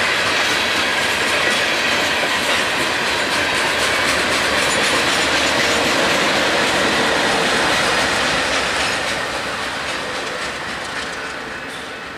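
Freight train of open hopper cars rolling past at close range: a steady clatter of steel wheels on the rails, with a BNSF diesel locomotive in the consist going by about halfway through. The noise fades over the last few seconds.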